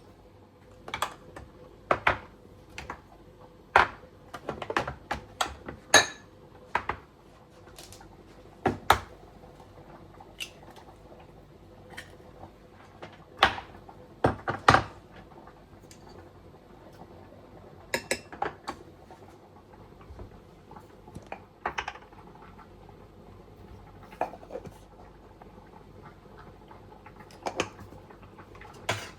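Irregular clinks and knocks of dishes and kitchen utensils being handled, a few a second at the busiest, over a faint steady hum.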